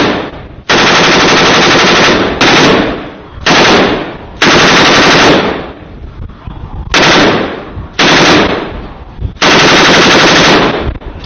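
Machine gun firing in about seven bursts of automatic fire, each half a second to a second and a half long, with echoing tails between them.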